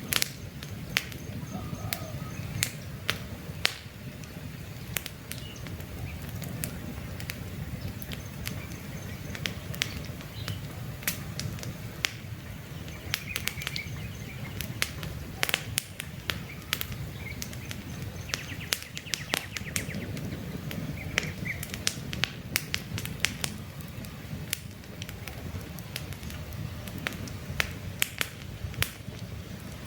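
Wood campfire burning with a low steady rush and frequent sharp crackles and pops from the logs. Faint bird chirps now and then in the background.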